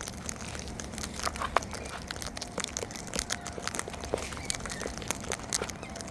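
Cockatoos cracking and husking seed with their beaks: a quick, irregular scatter of small clicks and crunches.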